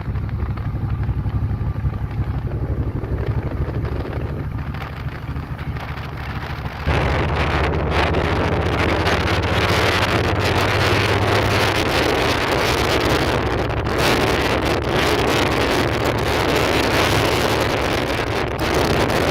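Motorcycle engine running at cruising speed, a steady low drone, with wind buffeting the microphone. The wind noise jumps much louder about seven seconds in and stays heavy.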